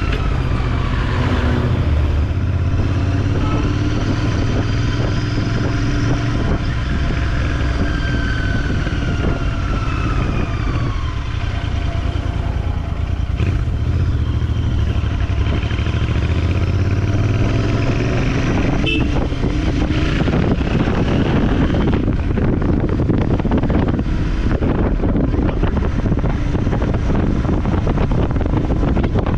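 Motorcycle engine running while riding, its pitch rising and falling with the throttle. Wind rushing over the microphone grows louder in the last third.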